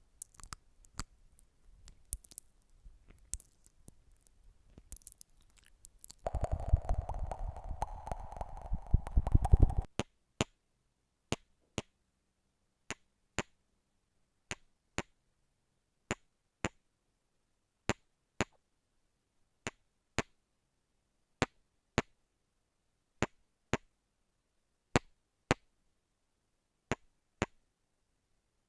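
Rhythmic ASMR tapping: sharp double taps repeating about every second and a half. Before the taps begin, there are a few faint clicks and a loud stretch of dense noise lasting about four seconds.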